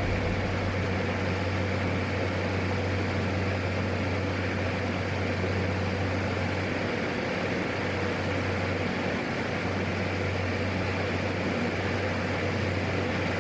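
Steady drone of a PAC 750 single-turboprop aircraft's engine and propeller, heard as a constant low hum under hiss.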